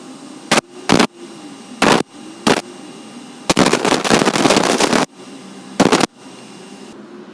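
Angle-grinder-driven belt grinder running with a steady hum, broken by loud, harsh grinding bursts each time work meets the belt. There are five short touches and one longer pass of about a second and a half, a little past the middle.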